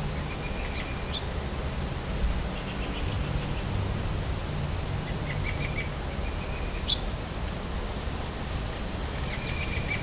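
Small birds calling in four short bouts, each a quick run of chirps ending in a sharp rising note, over a steady low hum of road traffic.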